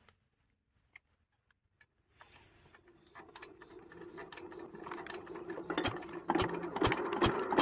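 A 12 hp diesel water-pump engine being cranked and started: after a quiet start, a fast mechanical clicking and whirring builds as the engine is turned over faster. About six seconds in it fires and begins running with regular loud knocks.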